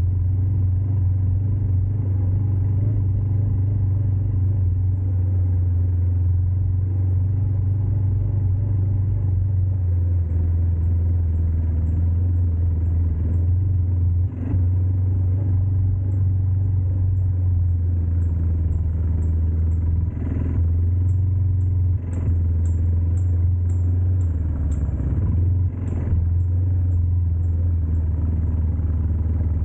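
ATV engine running steadily under way, with a few brief dips and knocks in the drone.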